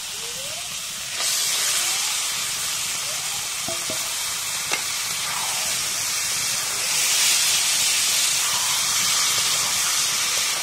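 Frying in a large metal wok: a steady sizzling hiss that jumps louder about a second in as wet leafy greens go into the hot oil with the vegetables and shrimp, and swells again later as they are turned with a steel spatula. One sharp clack of the spatula on the wok near the middle.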